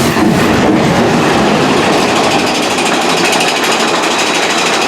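Big Thunder Mountain Railroad mine-train coaster cars running along the track at speed, a loud steady rumble with a rapid rattle.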